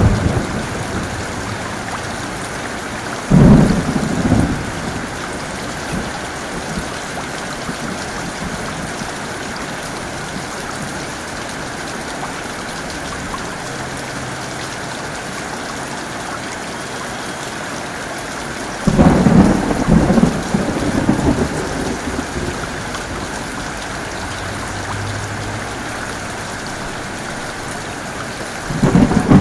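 Heavy, steady rain, broken by thunder three times. A sharp thunderclap with a short rumble comes a few seconds in, a longer rolling peal about two-thirds through, and another clap at the very end.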